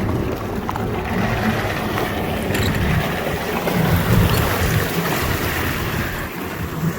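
Jet ski running under way, its engine and the rush of water mixed with wind buffeting the microphone.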